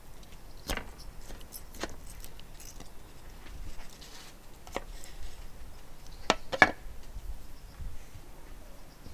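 Light metallic clinks and knocks of utensils against cookware, a few scattered strikes with a louder pair about six and a half seconds in.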